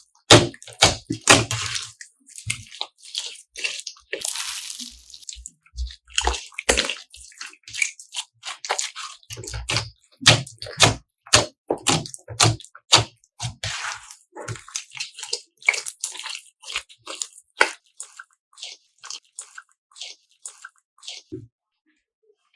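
Wet slime squished and worked by hand, giving a run of irregular squelches, clicks and little pops, with a brief hiss about four seconds in.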